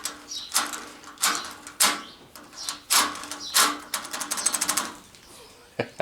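Hand file rasping on the cut edge of a hole in sheet steel, in separate strokes roughly every half second, with a quicker run of short strokes about two-thirds of the way through.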